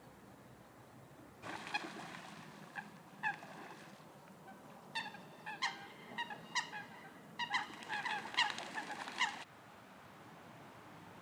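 Eurasian coot giving a series of short, sharp honking calls, a few scattered ones at first and then many in quick succession. They start and stop abruptly after about eight seconds.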